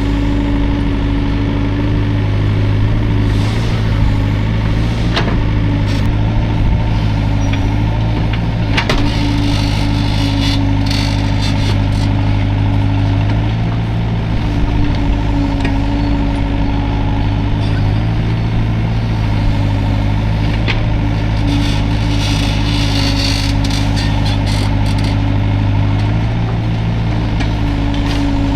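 Hydraulic excavator's diesel engine running steadily, its note shifting every few seconds as the machine works. Scattered clanks and short bursts of hiss sound over it.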